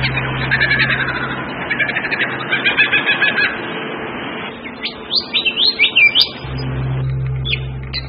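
Birds chirping and calling in quick runs of high notes, with a burst of sharp rising-and-falling whistled notes about five to six seconds in. A low steady hum runs underneath, dropping out in the middle.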